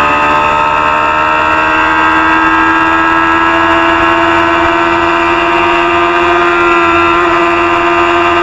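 Supersport 300 racing motorcycle engine running hard at high revs, its pitch climbing slowly and steadily as the bike pulls through a gear.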